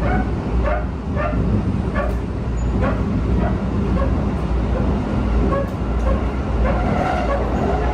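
Inside a Keikyu 1000 series train car running slowly: a steady low rumble with short, high metallic squeals from the running gear, about two a second. The squeals thin out past the middle and pick up again near the end.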